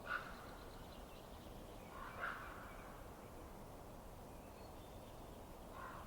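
Fireplace wood fire burning with a steady low hiss, broken by three short, louder sounds: one right at the start, one about two seconds in and a fainter one near the end.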